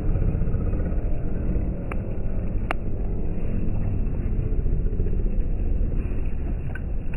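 Train running with a steady low rumble, with two sharp clicks about two and three seconds in.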